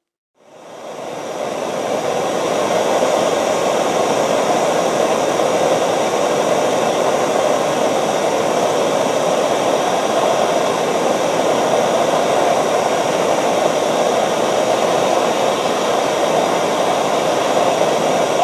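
Heat gun blowing steadily, heating a stuck drive pulley so that it expands and can be worked off its keyed motor shaft. It builds up over the first couple of seconds and cuts off abruptly at the end.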